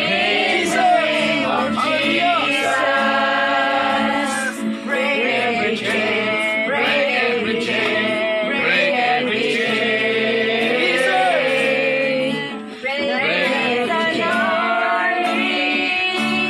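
Several men's and women's voices singing a worship song together, with a short break about two-thirds of the way through.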